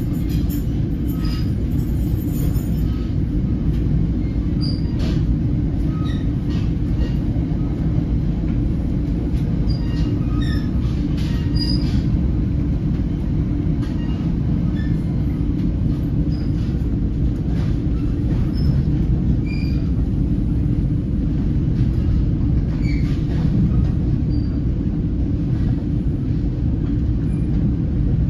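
Inside an NJ Transit Comet V passenger coach running at speed: a steady low rumble of the wheels on the track, with scattered brief high squeaks and ticks throughout.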